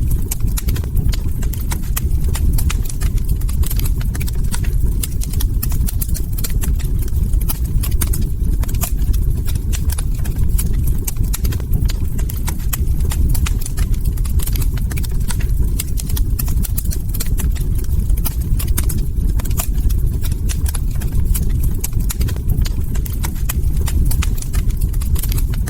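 Log fire crackling in a fireplace: frequent sharp, irregular pops and snaps over a steady low rumble of burning wood.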